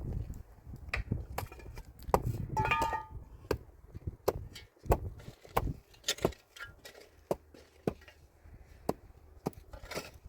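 Irregular sharp knocks and clinks, roughly two a second, with a brief pitched sound about two and a half seconds in.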